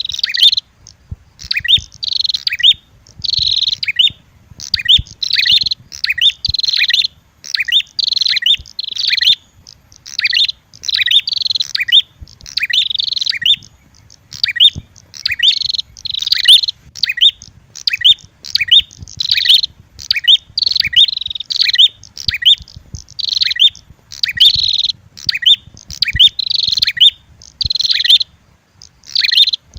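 Prenjak (prinia) lure calls: loud, rapid chattering phrases repeated about once a second with short gaps. Sold as a red-headed prenjak combined with a female prenjak's fighting call, used to draw in other prenjak.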